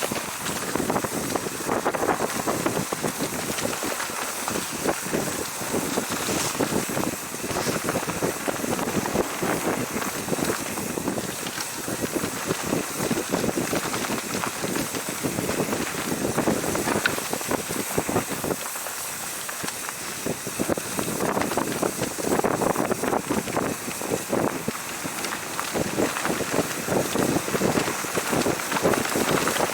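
Wind buffeting the microphone during a mountain-bike ride, with a dense stream of small rattles and knocks from the bike running over rough trail.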